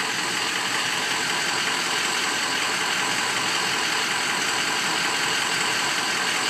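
Ford 6.0L Power Stroke V8 diesel idling steadily, with injectors 1 and 7 judged definitely worn.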